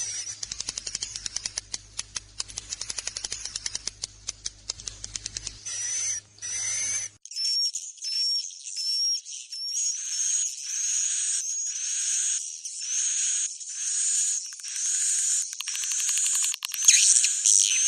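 Swiftlet lure recording of roosting calls: a fast run of clicking twitters for the first several seconds, then a steady series of short, rising chirps, a little more than one a second.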